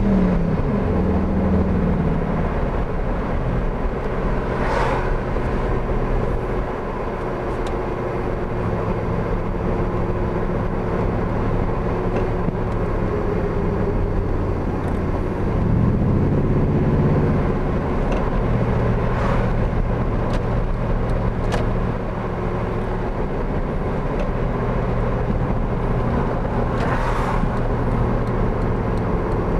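Lexus LS400's 4.0-litre 1UZ-FE V8 running through 2.25-inch straight-through exhaust pipes while cruising, a steady droning exhaust note. About halfway through the revs rise briefly and then settle back to a steady cruise.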